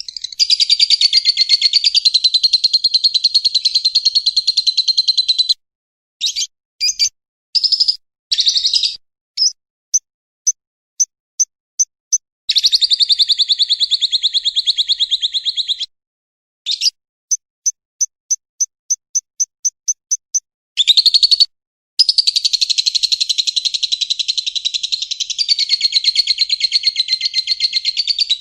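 Recorded songbird chattering in a fast, continuous trill, broken by sharp silent gaps and two runs of short, evenly spaced high chirps before the chatter resumes.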